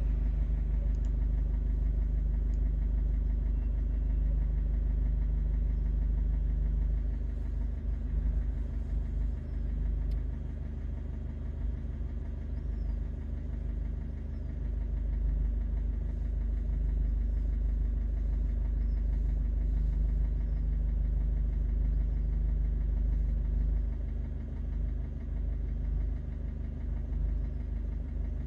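Ford car engine idling steadily at about 750 rpm, still cold with the coolant at around 25 °C.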